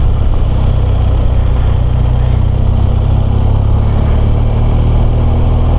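BMW R1200GS boxer-twin engine running steadily at a cruising pace while riding, a constant low drone.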